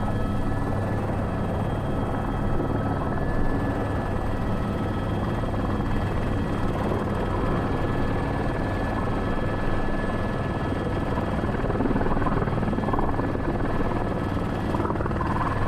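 Airbus H125 single-turbine helicopter heard from inside the cockpit while holding a hover with a sling load: steady rotor and engine noise with a constant high turbine whine, level and unchanging.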